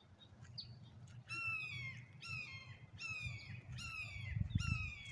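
A hawk calling: a series of five shrill calls, each falling in pitch, repeated about once a second. A brief low rumble comes near the end.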